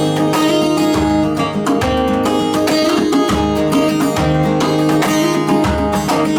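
A band playing an instrumental passage between sung lines, with guitar over low bass notes and a steady beat.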